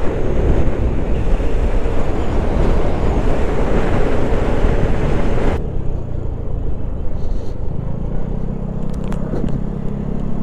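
Vespa GTS 125 scooter's single-cylinder four-stroke engine running at speed, under heavy wind rush on the microphone. A little over halfway the wind noise cuts off sharply as the scooter slows. From about eight seconds in the engine settles into a steady low hum.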